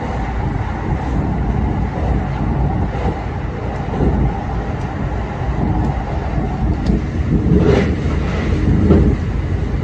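ET122 diesel railcar running through a tunnel, heard from inside the car: a steady rumble of the engine and wheels on rail, with a couple of louder knocks near the end.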